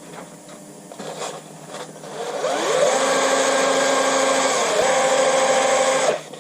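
An electric drill spins up, runs steadily with a brief drop in pitch as the spinning valve is loaded against wet sandpaper, then stops suddenly near the end. This is a motorcycle engine valve being polished.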